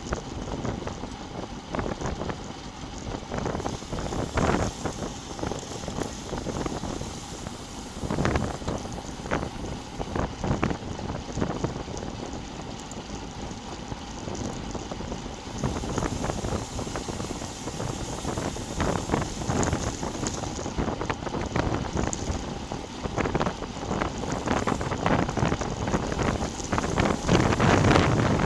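Wind buffeting the microphone of a bike-mounted GoPro Session on a road bike ride, a rushing noise that surges and drops in irregular gusts.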